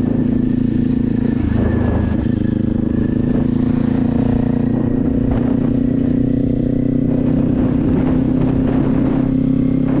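Motorcycle engine running at a steady pitch while being ridden.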